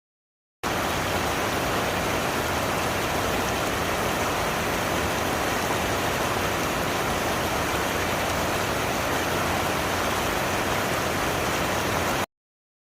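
Waterfall rushing: a steady, unbroken sound of falling water that cuts in just after the start and cuts off abruptly near the end.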